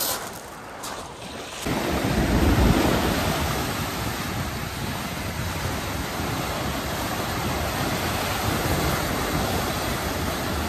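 Lake waves washing against a rocky shore, a steady rush with wind buffeting the microphone. It is preceded by a few light knocks in the first second or two.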